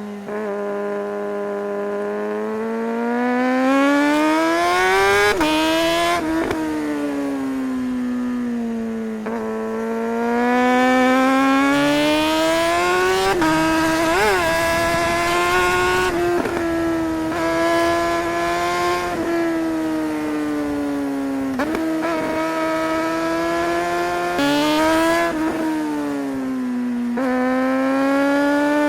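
Suzuki GSR600 motorcycle's inline-four engine pulling hard and then easing off, over and over. Its pitch climbs under acceleration and drops abruptly at each quick, clutchless quickshifter upshift. It then winds down with downshifts before the next bend.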